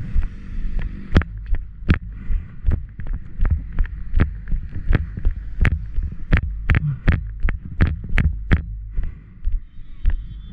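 A quick, even series of sharp taps or steps, about three a second, over a steady low rumble.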